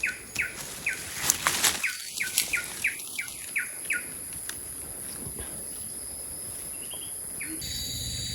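A bird calling a rapid series of short down-slurred notes, about three a second, stopping about four seconds in, over a steady high hiss.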